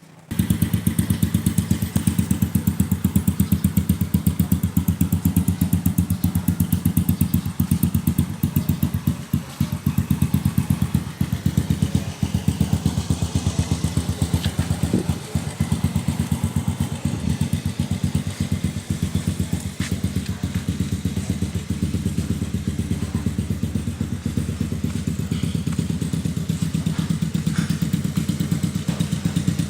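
Yamaha Nouvo Z scooter's stock single-cylinder four-stroke engine, breathing through a hollowed-out slip-on muffler with the baffling removed. It catches just as the sound begins, then idles with a fast, even exhaust beat.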